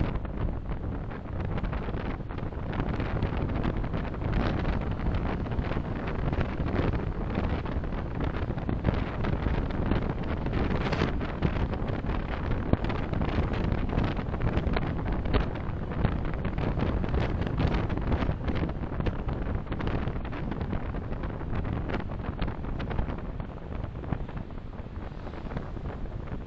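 Road and wind noise of a moving car picked up by its dash camera's microphone, a steady rumble with frequent small knocks and rattles, easing slightly near the end.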